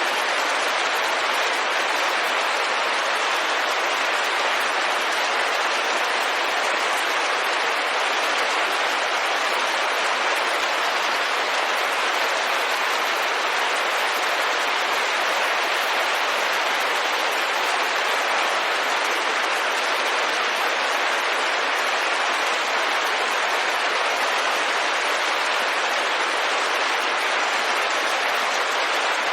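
Steady rain falling on a window, an even hiss that holds constant without let-up.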